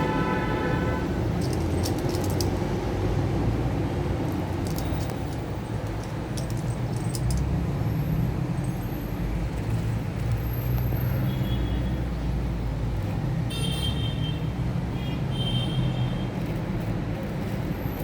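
Steady low outdoor rumble, with a few short high chirps in the last third.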